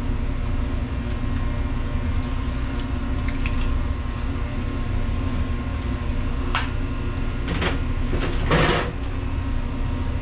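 Steady low machinery hum, with a few light clicks and knocks and a short rasping scrape about eight and a half seconds in, typical of parts being handled during a repair.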